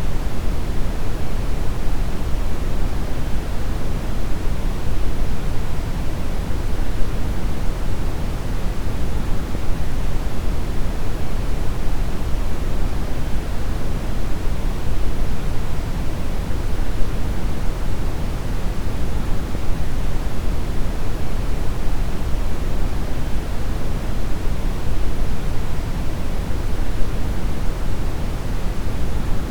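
Deep brown noise: a steady, unbroken rumbling hiss weighted heavily toward the low end, with no rhythm or change.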